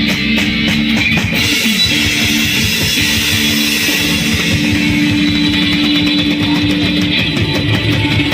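Live pop band playing during a sound check: guitar held notes over a drum kit beat.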